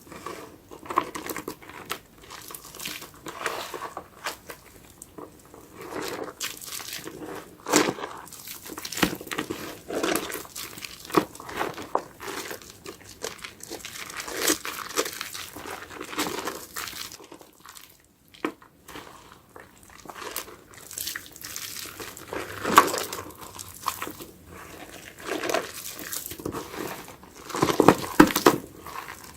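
A soap-soaked sponge being squeezed and worked, the foam squelching and crackling in irregular bursts, with a brief lull a little past halfway.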